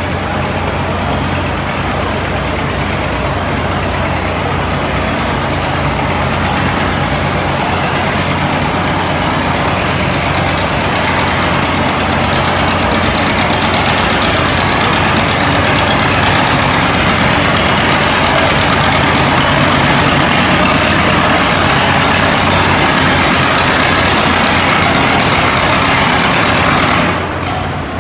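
Antique pulling tractor's engine running hard under load during a pull, growing steadily louder, then dropping off sharply near the end as the throttle comes off.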